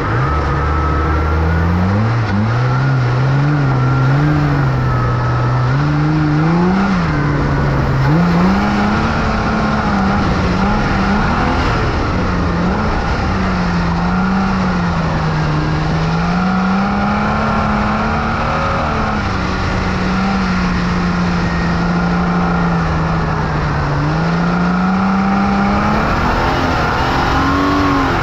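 Holden VT Commodore's 3.8-litre V6 engine revving hard and easing off again and again as the car is driven flat out round a dirt course, heard from a bumper-mounted camera over a steady rush of tyre and road noise. The engine note is steadiest in the middle and climbs again near the end.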